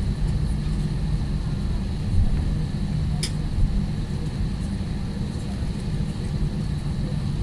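Steady low rumble of a jet airliner's cabin on the ground just after landing, with a faint steady high whine and a single sharp click about three seconds in.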